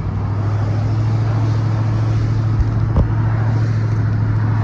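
Ice cream truck's engine running at a steady hum with road noise while driving, with a single knock about three seconds in.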